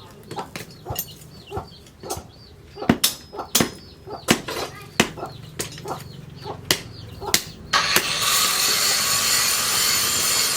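Irregular hammer strikes on metal at a blacksmith's forge, about one or two blows a second. About three quarters of the way in, a loud steady rushing noise starts and takes over.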